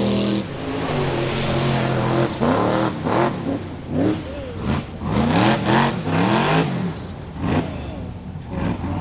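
Rock bouncer buggy engine running steadily for a moment, then revving in quick repeated bursts, its pitch rising and falling about twice a second.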